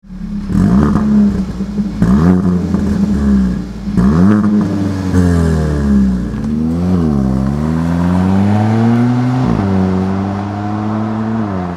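Kia ProCeed GT's 1.6-litre turbocharged four-cylinder engine revving and pulling, its pitch falling and climbing several times, with sudden jumps where the sound changes abruptly.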